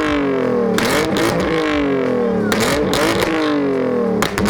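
BMW E36 engine revved in about three quick blips through straight-through blast pipes, each rev rising fast and sliding back down over about a second. Sharp pops and crackles from the exhaust come around the top of each blip, the backfiring that is shooting flames from the pipes.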